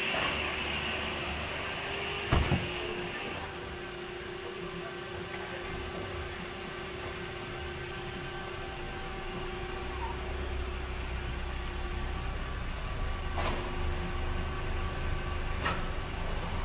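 A steady mechanical hum with a low rumble, and a hiss that cuts off about three seconds in. There is a sharp knock a couple of seconds in and two faint clicks near the end.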